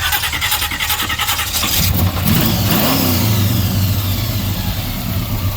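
Car engine revving, with rapid firing pulses for the first two seconds, then running on at a steady lower note.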